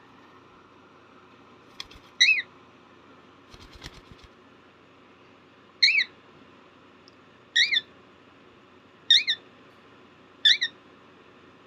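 Hand-fed cockatiel chick calling: five short, loud chirps, each rising and falling in pitch, about one every one and a half seconds, with a few soft clicks between the first two.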